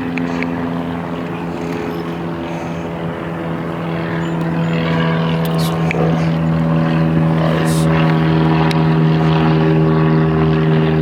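Propeller airplane flying low overhead, its engine drone holding a steady pitch and growing steadily louder as it approaches.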